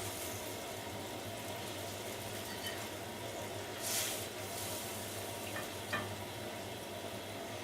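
Hot food faintly sizzling with a steady hiss and a low hum beneath. There is a brief scrape about four seconds in and a small click near six seconds.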